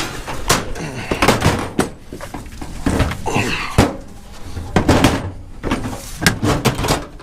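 Scrap steel being handled: a string of irregular metal clanks, knocks and thuds.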